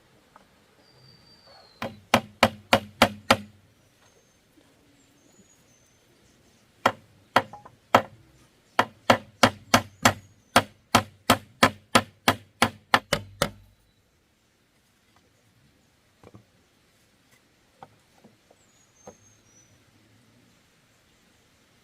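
Quick, sharp blows of a hand tool striking bamboo, in two runs: about six strikes, then after a pause about sixteen more, before it stops and only a few faint knocks remain.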